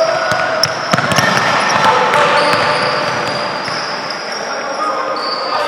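Indoor basketball game: the ball bouncing on the court with scattered knocks, over long high-pitched squealing tones and the noise of the hall.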